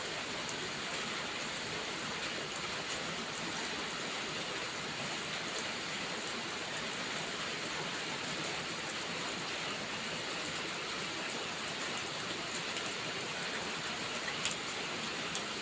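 Steady rain falling, an even rushing hiss with scattered small drop ticks and one sharper tick near the end.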